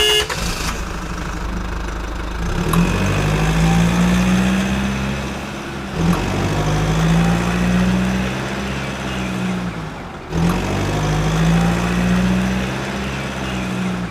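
A vehicle engine revving up, holding steady and dropping back, three times over, with short breaks about six and ten seconds in.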